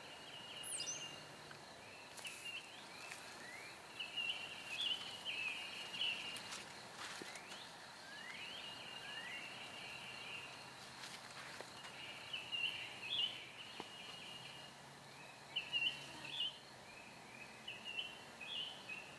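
Birds chirping in short, repeated trilling phrases, with several quick rising whistles, over a quiet outdoor background.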